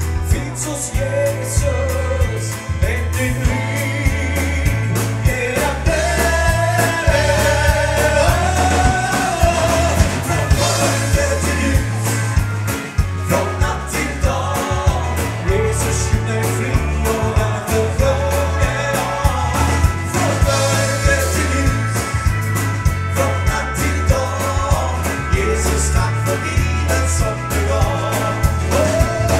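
A live band plays a gospel song with lead singing over bass and a steady drum beat.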